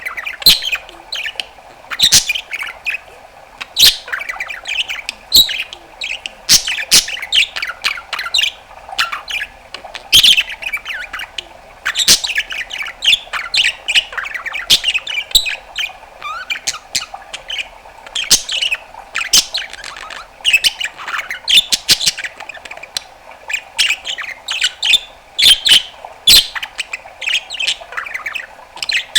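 Budgerigar warbling and chattering non-stop, a rapid run of chirps, squawks and sharp clicks.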